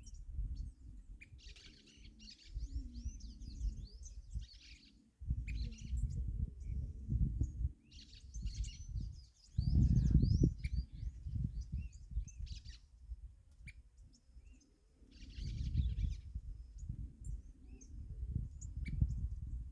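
Small birds singing and chirping in bursts of quick, rapid notes, with three longer song phrases about two seconds, eight seconds and fifteen seconds in and scattered single chirps between. A steady low rumble sits underneath, loudest in the middle.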